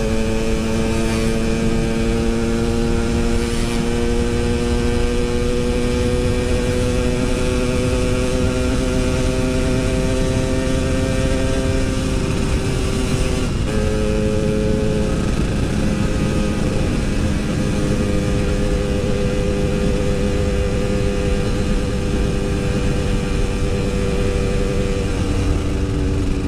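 Yamaha RX-King 135cc two-stroke single-cylinder engine running under way, its pitch rising slowly for about thirteen seconds. It breaks off briefly, as at a gear change, then carries on at a lower, steadier pitch. A low wind rumble runs underneath.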